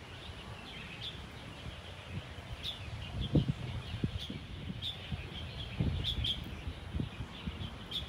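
Birds calling in a tree canopy: many short, high chirps scattered throughout. Low rumbles and thumps lie under them, the strongest about three and a half seconds in.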